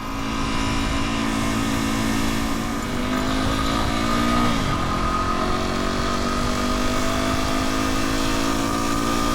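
Dual-sport motorcycle engine running under way, its pitch climbing slowly as it accelerates, dropping once at a gear change about halfway through, then climbing again.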